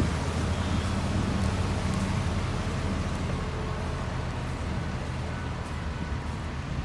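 Steady street traffic noise with the low hum of a motor vehicle's engine, slowly fading.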